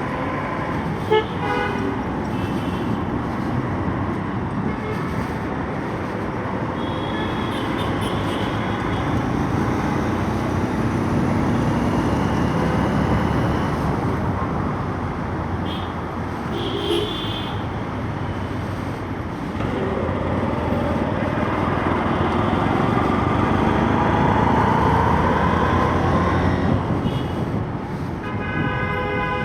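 Steady motorcycle engine and road noise while riding in traffic, with vehicle horns honking briefly several times: about a second in, twice mid-way, and again near the end.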